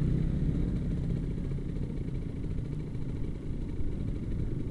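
Kawasaki Ninja RR 150's two-stroke single-cylinder engine running at a steady cruise while riding.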